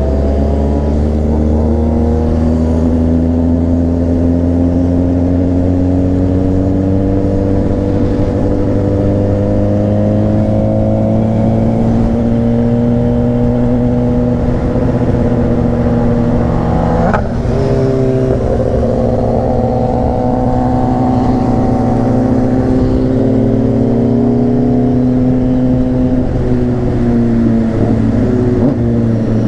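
Honda CBR600RR inline-four motorcycle engine running under load, its pitch climbing slowly. About seventeen seconds in there is a quick gear change: the pitch drops sharply, then climbs again.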